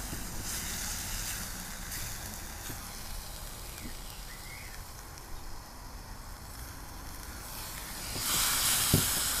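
Chicken and red curry paste sizzling in a hot skillet, with a little water just added to keep the paste from burning. The hissing holds steady, then gets louder for about two seconds near the end, with a single knock in that louder stretch.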